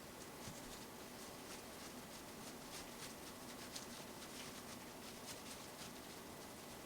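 Faint, light scratching and rustling of hands working kimbap ingredients (rice, seaweed sheets) on a rolling mat, many small soft strokes over a steady low hiss.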